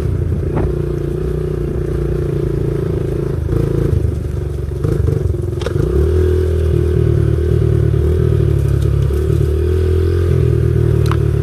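Small single-cylinder pit bike engine running under way on a dirt trail at a steady pitch, getting a little louder about halfway through, with a few sharp clicks over it.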